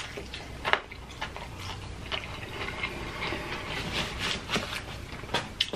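A person chewing a bite of crispy Popeyes fried chicken, with irregular crunches of the breading and wet mouth sounds.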